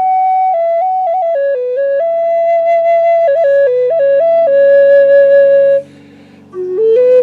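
Native American flute playing a slow melody of held notes with small ornamental turns, pausing briefly for breath about six seconds in. A faint steady low hum runs underneath.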